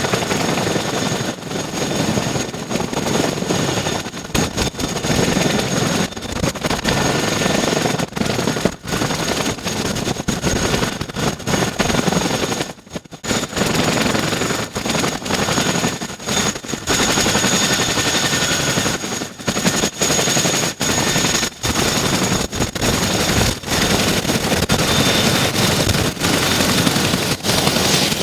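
RAF CH-47 Chinook's twin T55 turboshaft engines running with its tandem rotors turning: a loud, continuous rotor roar under a steady high turbine whine, with a brief dip about halfway through.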